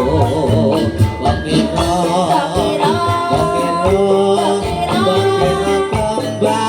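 Live jaranan dangdut music: a melody line with vibrato over a steady, driving drum beat.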